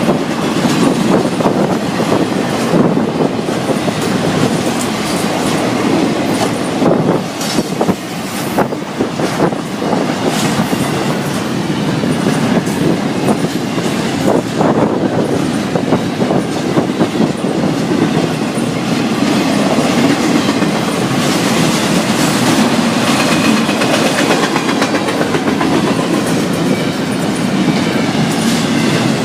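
Florida East Coast Railway freight train's cars rolling past steadily, a continuous loud rumble with wheels clicking over the rail joints.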